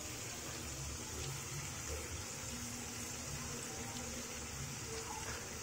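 Blended chili sambal paste sizzling steadily in oil in a metal wok.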